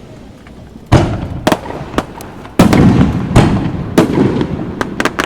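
Fireworks shells bursting overhead, a quick string of sharp booms with rumbling echoes, the heaviest cluster starting about two and a half seconds in.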